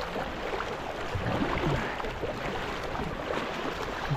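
Water splashing and lapping around a kayak being paddled, over a steady rushing noise.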